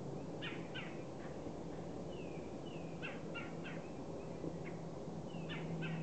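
Birds calling: clusters of short, sharp notes about half a second in, around three seconds in and again near the end, with two short descending whistles between them, over a steady low hum.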